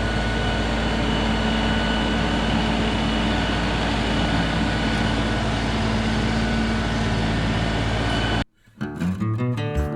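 LS MT3 compact tractor's diesel engine running steadily under work, cut off abruptly near the end, where plucked acoustic guitar music starts.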